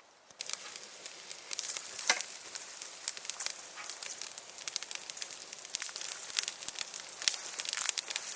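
Small wood fire crackling, with dense irregular pops and snaps that start suddenly about half a second in.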